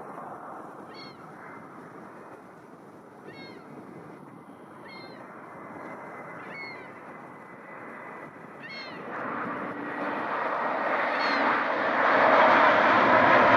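Airliner engines growing steadily louder as the plane approaches, swelling sharply from about nine seconds in. A bird gives about six short, high calls over the rising noise.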